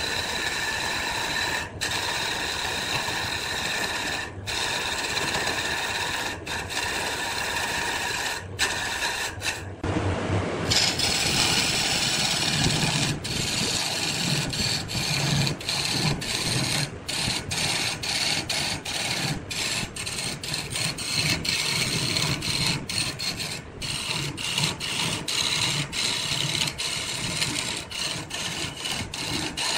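Wood lathe running while wood is worked on the spinning piece, a steady rasping, rubbing sound that changes character about ten seconds in.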